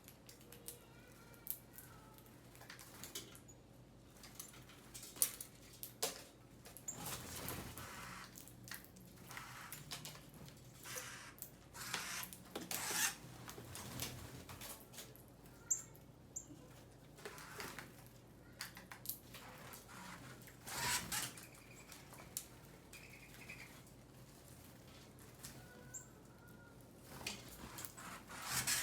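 Small birds feeding in snow: scattered light taps and rustles, with a few short, faint chirps over a faint low hum.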